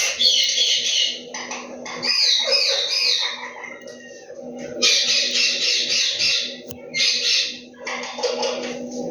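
Indian ringneck parrot chattering and squawking in repeated harsh bursts, some with quick falling warbles, over a steady low hum.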